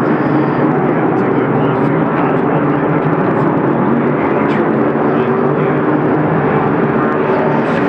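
IMSA sports prototypes and GT cars running at speed on the track in heavy rain, their engines blending with the rain and spray into a steady, loud din.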